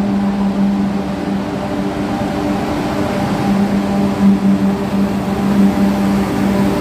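Eurostar Class 373 high-speed train running into an underground platform, with a steady hum of several held tones over the rumble of the train, growing a little louder as the front of the train comes past.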